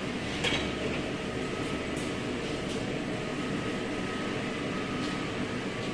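Steady mechanical hum with a faint high whine, and a few light clicks about half a second and two seconds in.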